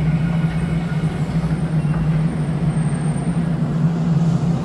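DART light-rail train pulling into an underground station: a steady rumble with a strong low hum and a faint high whine partway through.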